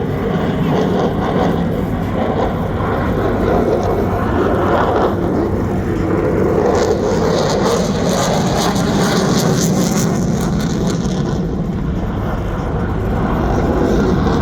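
F-16 fighter jet engine noise, a loud continuous rush, with the hiss growing stronger from about seven seconds in and easing again about four seconds later as the jet passes.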